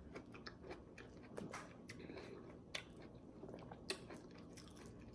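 Faint wet chewing of juicy pomelo flesh, with scattered soft clicks and crackles as fingers pull the pulp from a segment's membrane.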